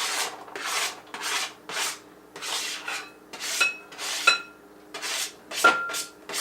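A knife scraping diced celery across a cutting board into a bowl: about ten short rasping scrape strokes, roughly two a second, with a few brief ringing clinks of metal on the bowl.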